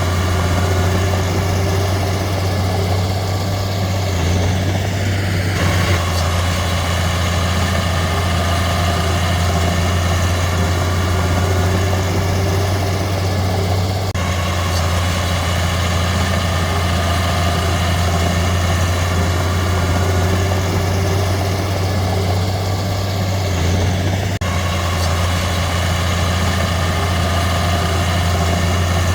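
Heavy diesel engine of earthmoving machinery running steadily, with a strong low hum and its tone shifting slightly a few times as the load changes.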